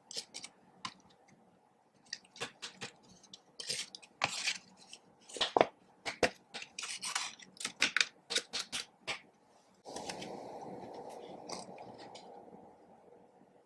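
Slime being mixed by hand: a run of sticky clicks, crackles and squelches. About ten seconds in, a steady rushing noise takes over and fades out over two or three seconds.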